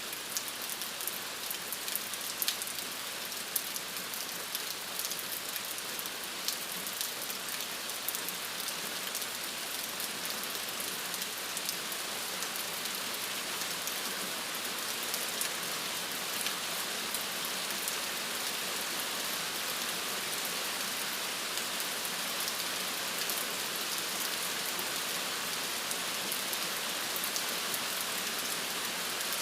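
Steady rain falling on a surface, a continuous hiss with many fine drop ticks, a few sharper drop hits in the first few seconds.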